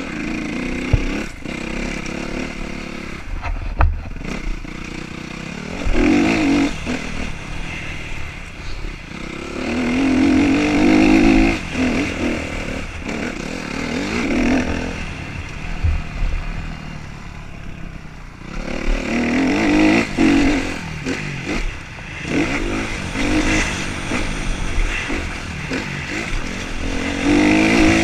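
Motocross motorcycle engines revving hard and easing off again and again, the note rising and falling as the bikes accelerate along the track, with several loud swells as they come close.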